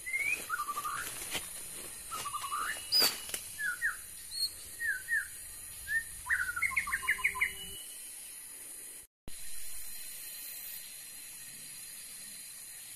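Songbird calling: a string of short whistled sweeps and chirps, a few sharp clicks among them, ending in a quick run of notes about seven seconds in, over a steady high hiss.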